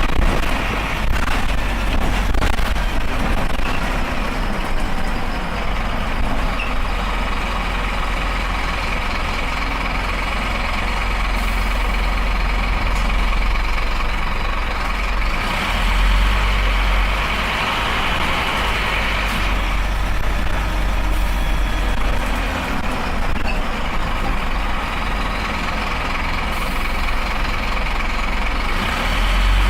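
Scania Esteem coach's diesel engine running steadily with continuous road noise, swelling a little about halfway through.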